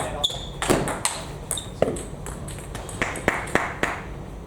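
Table tennis rally: a celluloid-type ball clicking back and forth off rubber bats and the table, a quick string of hits a quarter to half a second apart that stops shortly before the end, with a few brief high squeaks among them.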